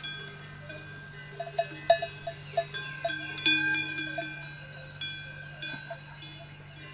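Metal bells clanking and ringing at irregular intervals, many overlapping strikes whose tones linger, loudest about two seconds in and again midway, over a steady low hum.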